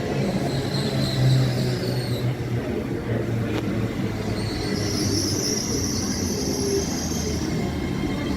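Train moving through the station with a steady low rumble and hum, and high-pitched wheel squeal: faint at first, louder from about halfway through, then fading before the end.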